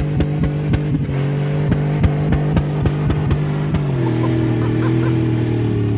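LS V8 truck engine held at high revs, pulsing about three times a second, then its pitch drops a little about four seconds in.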